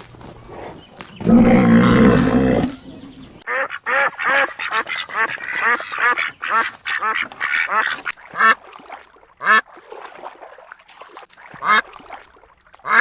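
Ducks quacking in a rapid series of short calls, a few a second. A louder, lower call of about a second and a half comes shortly before them.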